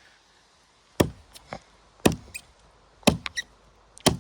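An axe chopping through small branches of a felled pine tree: four strikes about a second apart, each followed by a few lighter knocks.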